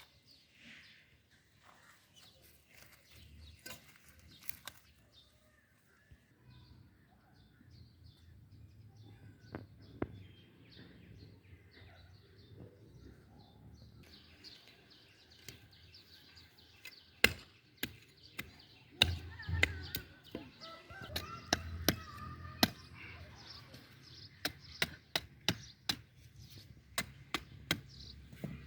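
A run of sharp, irregular clicks and chopping knocks, sparse at first and coming several a second in the second half, over a faint steady outdoor background.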